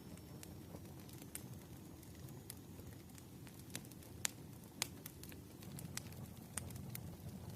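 Wood fire crackling, with irregular sharp pops over a steady low rumble; the two loudest pops come about four and five seconds in.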